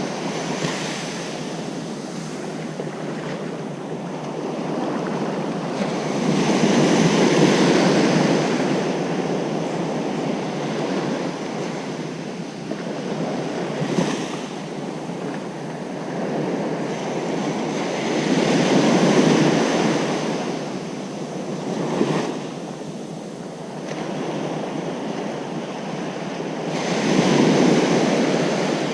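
Ocean surf breaking on a beach, a steady wash of water that swells with each wave about every six to eight seconds.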